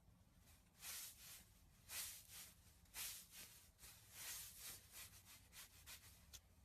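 Slime being squeezed and worked by hand: a series of short, quiet squishes, the stronger ones roughly once a second with smaller ones between.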